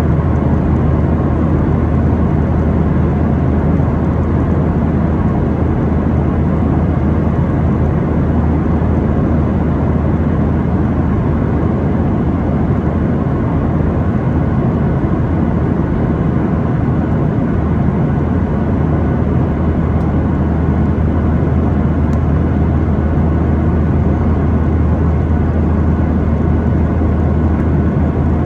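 Cabin noise inside a Boeing 737-800 airliner with its engines running: a steady low drone under an even rush of air, unchanging throughout.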